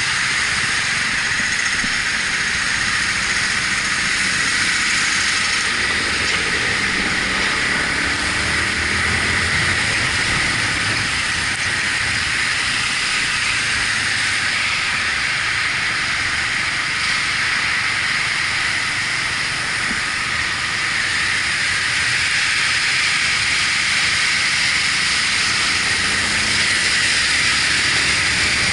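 Steady hiss of wind and wet-road spray on a motorcycle ride in the rain, with the Yamaha MT-125's single-cylinder engine running faintly beneath it.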